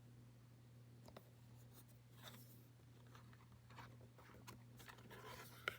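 Near silence with faint paper rustling and soft ticks, as from a picture book's page being handled and turned, over a low steady hum.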